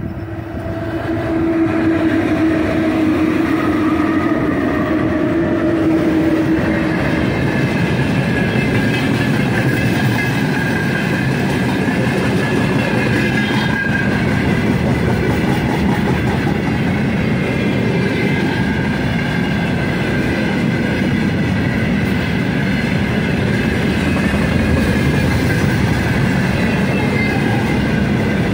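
2ES5K Ermak electric locomotives passing close by with a freight train. A strong steady tone from the locomotives lasts about the first six seconds and then fades. After that, freight wagons roll past with a continuous, even rumble of wheels on rails.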